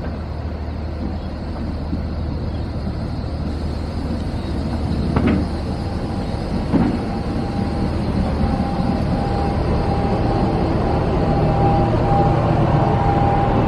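A train running with a steady low drone, broken by two sharp knocks about five and seven seconds in; after the second knock a steady whine sets in and grows louder toward the end.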